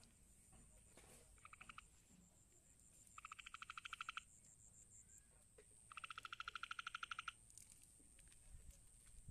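An animal's rapid pulsed trill calls, about a dozen pulses a second, in three bouts: a short one about a second and a half in, then two longer ones, each growing louder as it goes. A faint steady high-pitched whine runs underneath.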